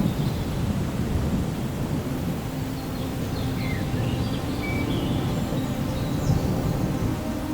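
Distant thunder rumbling low and continuously over steady rain.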